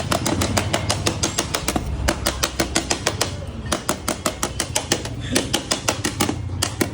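Rapid, even hammer taps on the metal casing of a motorcycle exhaust silencer, about six or seven a second, as it is worked open for repacking, with a low steady hum underneath.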